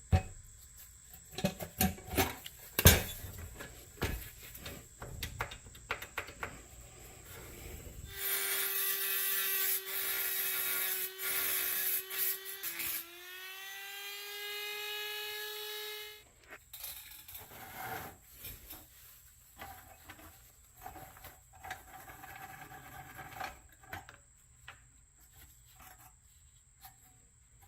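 Small electric power tool running for about eight seconds with a steady whine; partway through it dips, then speeds up to a higher pitch before stopping. Scattered clicks and knocks of metal parts being handled come before and after it.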